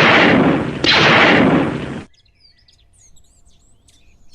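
Two loud, harsh noise blasts: the first starts at the very beginning, the second comes in about a second in, and both cut off abruptly about two seconds in. Faint bird chirps follow.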